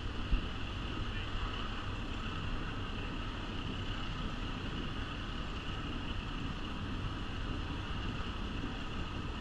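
Steady rumble and hiss of a passenger train rolling along the track as it climbs a steep 4% grade, heard from an open-air car with wind on the microphone. A single low thump comes about half a second in.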